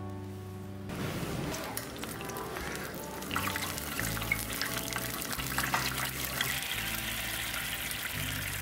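Food frying in hot oil in a pan: a sizzling hiss that starts about a second in and grows denser and crackly about three seconds in, over background music.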